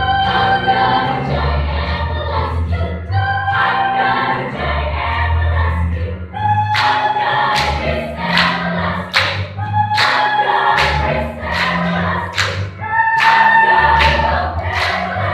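Children's choir singing in harmony with held chords. From about six and a half seconds in, sharp percussive taps join in a rhythm, about one or two a second.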